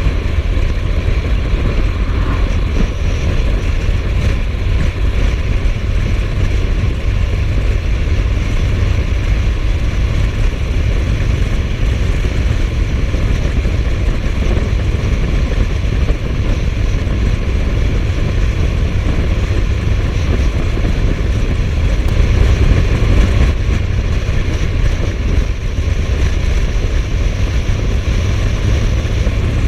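Suzuki GSF1250S Bandit inline-four motorcycle running at a steady cruise. A heavy, steady low rumble of wind and engine noise fills the onboard microphone, with no gear changes or bursts of revving.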